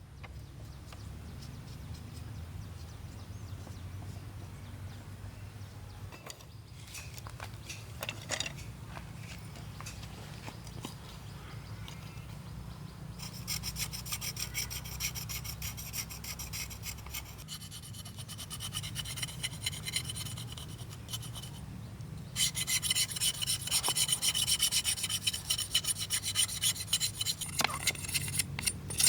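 Rhythmic rasping strokes of a hand tool working bamboo, starting about halfway through and growing louder after a short pause near the three-quarter mark, over a steady low hum.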